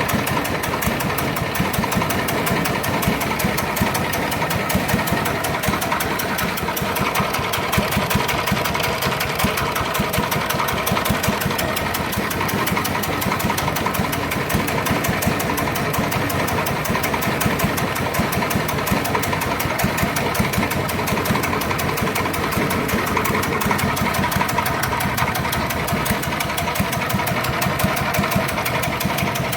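Small diesel engine running steadily at an even speed throughout.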